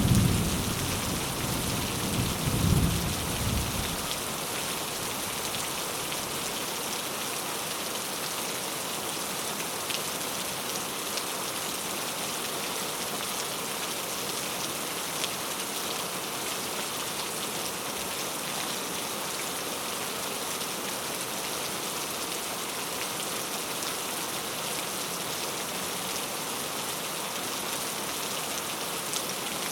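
Steady rain falling, an even hiss. A low thunder rumble with two swells dies away about four seconds in.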